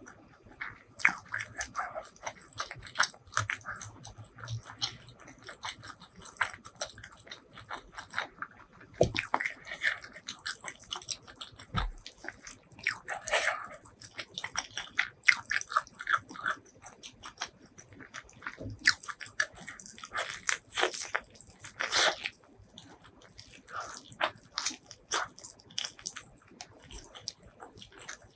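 Close-miked eating: a person biting and chewing food with crisp, irregular crunching and wet mouth clicks, louder clusters of crunches coming in bursts several times.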